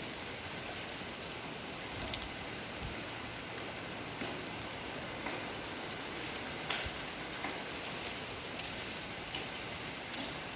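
Steady rain falling, an even hiss with scattered sharp drop ticks, one louder tick about two seconds in.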